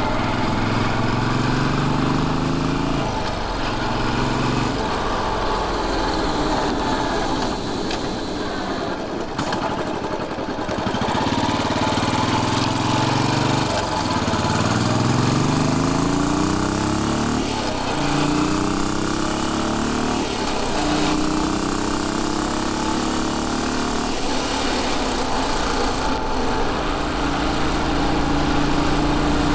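Royal Enfield Bullet 500's single-cylinder engine on the move. After a few seconds eased off, it pulls away with the pitch rising in three sweeps, each cut short by a gear change, then settles to a steady cruise. Wind noise runs underneath.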